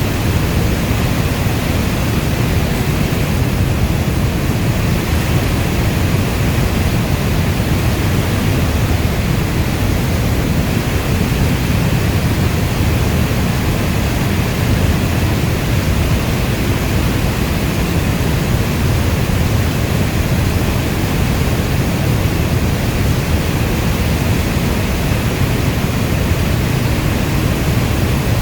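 Rainstorm ambience: heavy rain as a steady, even, deep rushing noise, with no single drops or thunder standing out.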